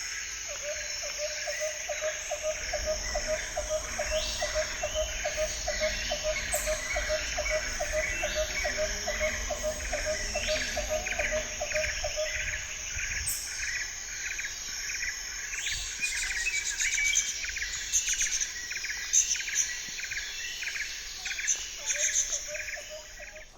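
Birds calling and insects chirping: a steady high hiss with quick chirps repeating about three times a second throughout, and a lower note pulsing at a similar rate for about the first half.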